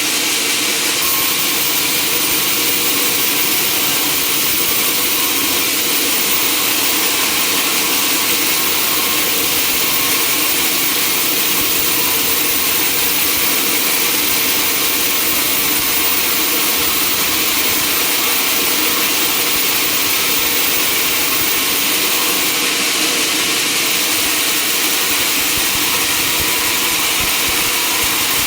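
Sawmill machinery running at a steady pitch, a constant loud machine noise with a strong hiss and no change in speed or load.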